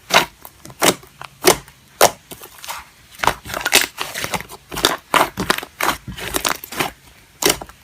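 Slime being squeezed and pressed, giving irregular crackling pops and clicks.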